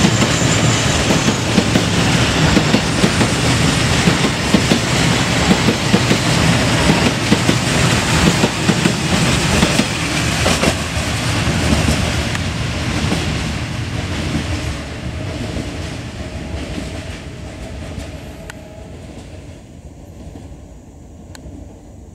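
Freight train of covered boxcars rolling past close by, steel wheels clattering and clicking over the rail joints. From about halfway through, the sound fades steadily as the last wagons draw away.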